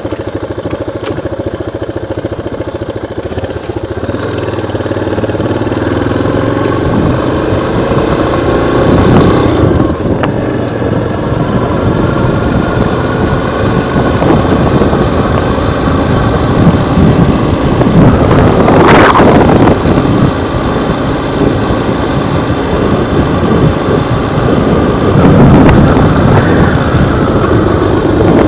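Yamaha Lander 250 motorcycle's single-cylinder engine running under way, its pitch rising several times as it is revved through the gears.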